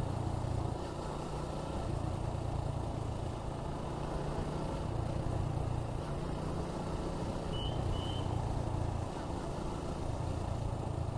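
Suzuki Gixxer 155's single-cylinder engine running steadily at an easy, unhurried cruising pace, its note rising and easing slightly with the throttle.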